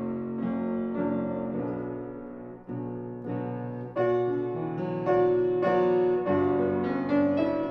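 Solo piano playing a slow passage of chords, each struck and left to ring and fade before the next.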